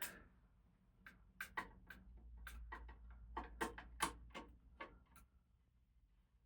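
Sharp clicks and taps of small hardware being handled and fastened while a ceiling fan blade is mounted: about a dozen irregular clicks, most of them between one and five seconds in.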